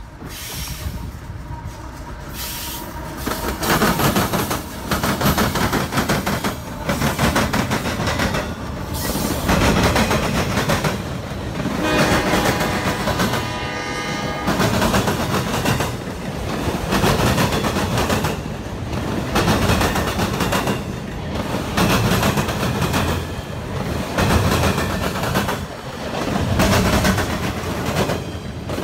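CSX freight train passing close by, its wheels clacking over the rail joints in a steady rhythm of paired beats about once a second. It builds over the first few seconds and stays loud, with a brief higher tone around twelve seconds in.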